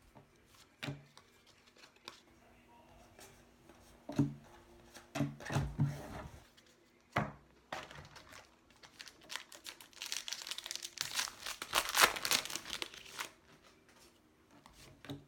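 Wrapper of a 2018 Panini Donruss baseball card pack crinkling and tearing as it is handled and opened. A few scattered soft clicks come first, then a spell of dense crinkling about two-thirds of the way through.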